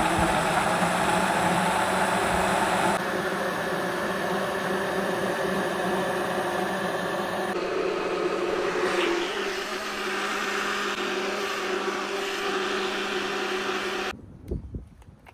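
A steady running vehicle engine, in segments that change abruptly a few times, and then drops away sharply near the end.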